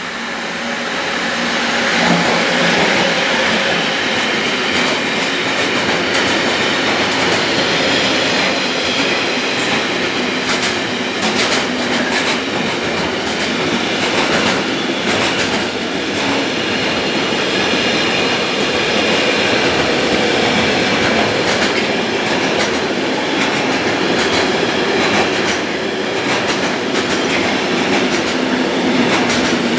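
Freight train passing close by, its wagons rolling steadily with repeated clacks of the wheels over rail joints. The sound swells over the first couple of seconds as the train draws level, then stays steady.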